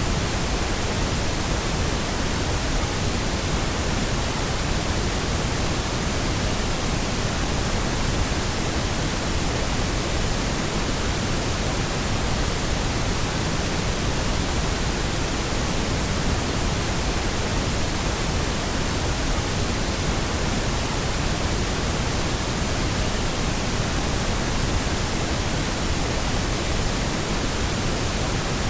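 Steady, unchanging pink noise: an even hiss spread over the whole range of pitch, with no events or changes.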